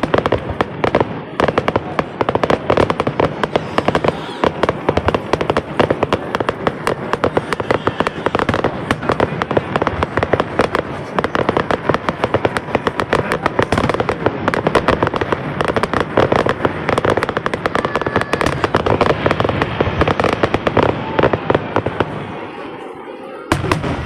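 Aerial fireworks going off in a dense, continuous barrage of rapid bangs, easing off about 22 seconds in.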